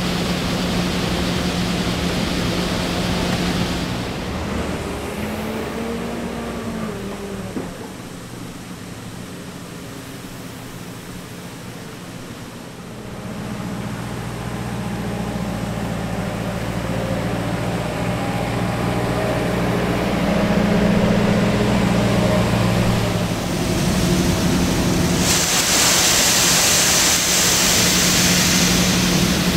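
Heavy diesel harvest machinery running with a steady engine drone. The drone fades about four seconds in and builds again from about thirteen seconds. A loud hissing rush joins near the end.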